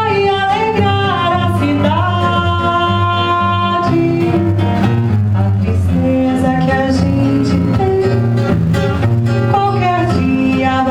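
A woman singing a slow, held melody to an acoustic guitar accompaniment.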